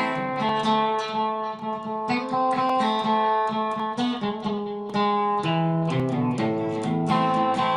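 Solo acoustic plucked-string instrument playing an instrumental break between sung verses, a steady run of picked notes and chords.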